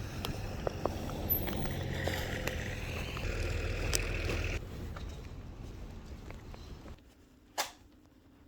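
School bus driving past, its engine and road noise a steady low rumble that drops off sharply about four and a half seconds in and fades away. A single short click near the end.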